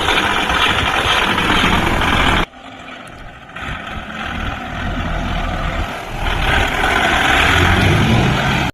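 Kubota MU5502 tractor's diesel engine running loud. About two and a half seconds in the sound drops abruptly to a lower level, then builds back up to full loudness toward the end.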